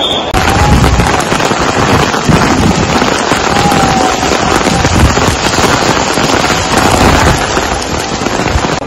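Heavy rain pouring onto a flooded paved courtyard: a loud, dense crackling hiss, with low rumbles coming and going.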